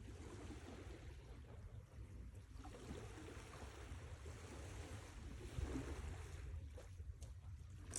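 Sea waves washing in, quiet, with a steady low rumble and a soft hiss that swells a little about three and six seconds in.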